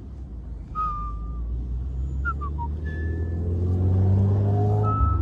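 Car engine accelerating: a low rumble whose pitch climbs steadily for a couple of seconds, then drops near the end as for a gear change. A few short high chirps sound over it.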